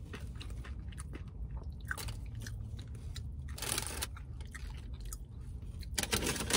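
Chewing and crunching on a crisp fried hard-shell taco, with a louder crunching bite about three and a half seconds in. A short, louder noise comes near the end.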